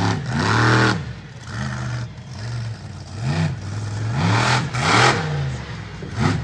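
Monster truck's supercharged V8 engine revving hard, then blipping the throttle several times, the pitch rising and falling with each rev.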